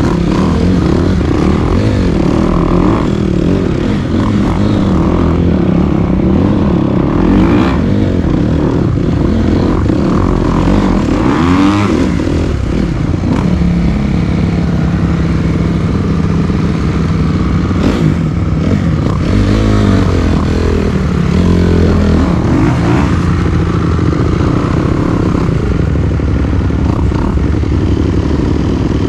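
Dirt bike engine running while being ridden, revving up and down through the throttle, with some clatter.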